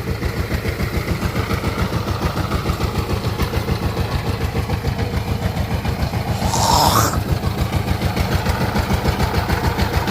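Diesel engine running steadily with a rapid, even beat of about ten pulses a second. A brief louder rising hiss comes about six and a half seconds in.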